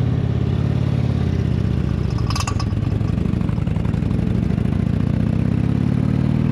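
Indian touring motorcycle's V-twin engine pulling away from a standstill in third gear, running at low revs and rising slightly in pitch near the end. A short sharp clack about two and a half seconds in.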